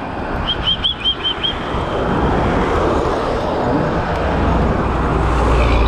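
Wind rushing over the microphone and road noise from riding a bicycle on a road, with a low traffic rumble that swells toward the end. A quick run of six short high chirps sounds about half a second in.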